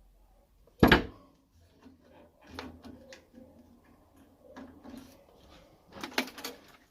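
Handling noises during boiler work: a sharp, loud knock about a second in, light clicks and rattles, then a quick run of knocks near the end.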